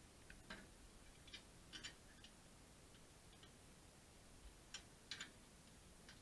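Near silence with faint, irregular light clicks and ticks, about eight of them, spread unevenly through the stretch.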